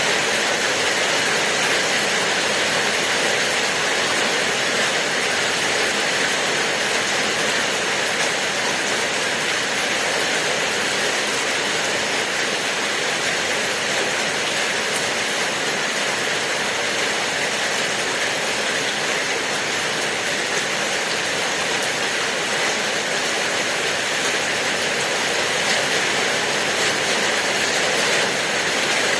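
Steady rain falling, a continuous even hiss that holds at the same level throughout.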